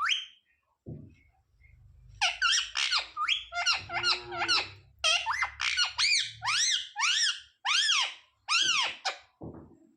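Pet parrot giving a rapid series of shrill squeaky calls, about two a second, starting about two seconds in.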